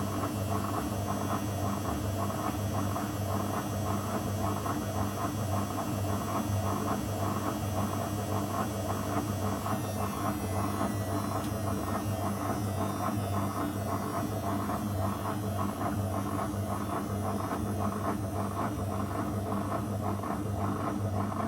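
Zanussi FL984CN washing machine running: a steady motor hum with a quick, even pulsing from the turning drum. The higher hiss shifts slightly about halfway through.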